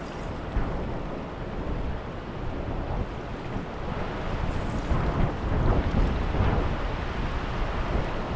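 Fast river current rushing steadily, with wind buffeting the microphone in uneven gusts that grow louder past the middle.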